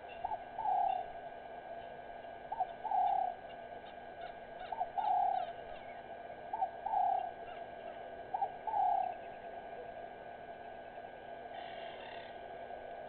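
A bird calling with a low two-part call, a short note followed by a longer falling note, repeated five times about every two seconds, then stopping; faint higher chirps of other birds sound in the background.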